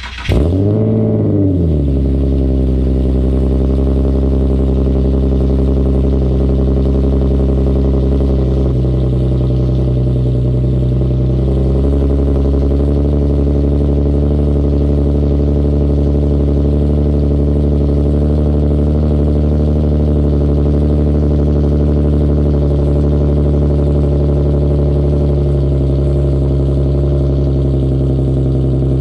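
Infiniti G37's V6 cold start through an ISR single-exit catback with resonated test pipes and Y-pipe: it catches right at the start, flares up in revs for about a second, then settles into a steady high cold idle. The idle note shifts slightly about nine and twelve seconds in.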